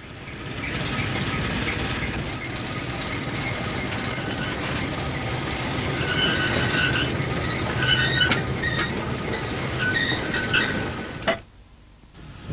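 Train running on the track with a steady low hum and rumble. In the second half the wheels squeal in several short, high-pitched bursts, and the sound cuts off sharply near the end.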